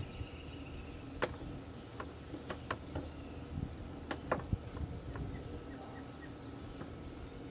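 Light clicks and taps of a screwdriver and hand tools on the screws and plastic of a car door panel, scattered irregularly, over a faint steady hum.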